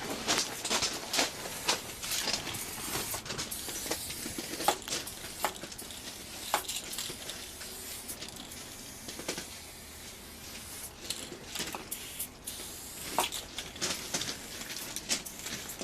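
Aerosol spray-paint can hissing in short and longer bursts, mixed with scattered sharp clicks and knocks.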